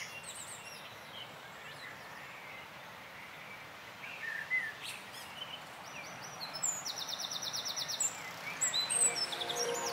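Wild birds chirping and whistling over a steady faint outdoor hiss, with a fast, even trill about two-thirds of the way in. Music begins to come in near the end.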